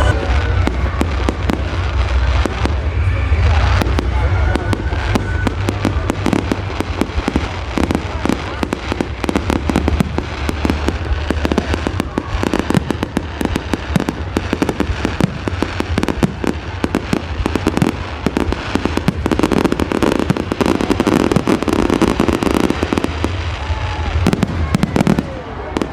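Fireworks display: a rapid, continuous barrage of bangs and crackles from bursting shells.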